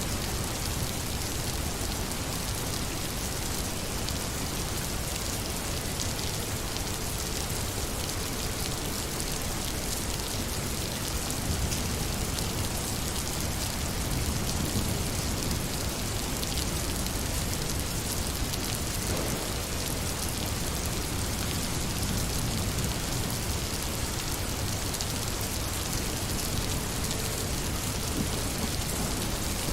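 Steady rain falling on a surface, an even hiss of many drops that holds without break.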